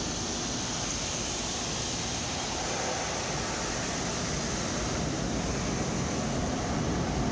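Automatic car wash running: a steady rushing noise that slowly grows a little louder.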